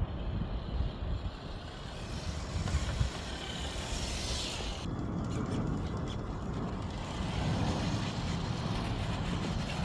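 Steady low rumble of highway traffic. Over it, a hiss in the higher range rises and then stops abruptly about five seconds in.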